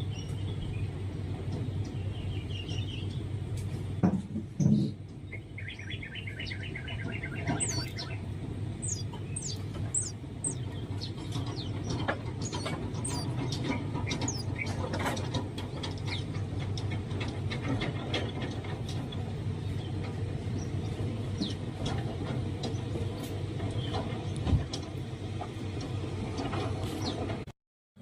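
Birds chirping: quick trains of rapid repeated notes and many short, high, falling chirps over a steady low rumble. Two loud thumps come about four seconds in.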